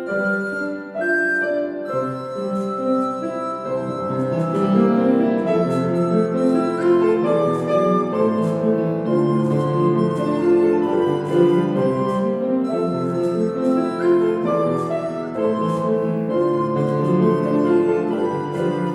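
A lullaby played on a keyboard instrument, with many notes held and overlapping.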